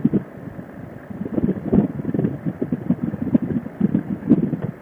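Motorcycle riding noise: wind buffeting the microphone over the rumble of the bike on the highway, with an uneven, gusting low rumble.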